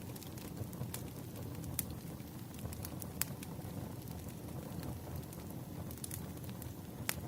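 Wood fire crackling: scattered sharp pops and snaps over a steady low rush of burning logs.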